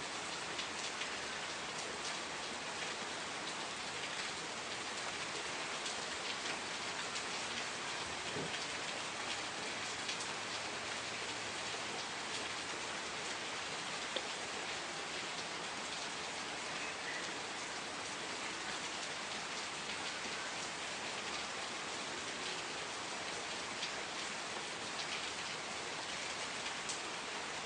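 Steady rain falling, a continuous even hiss with many small drop ticks.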